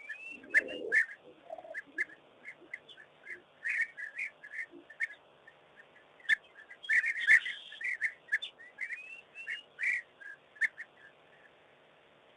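A bird's whistled calls: short high notes with sharp clicks and a rising glide, in a phrase that comes round again about eight seconds later. The busiest stretch is around the middle, and the calls thin out near the end. A brief lower rumble comes just after the start.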